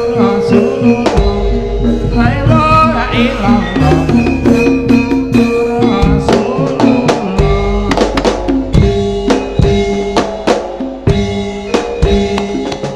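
Loud live Javanese jaranan sentherewe music: sharp drum strokes over sustained, ringing pitched tones, with a wavering melodic line a few seconds in.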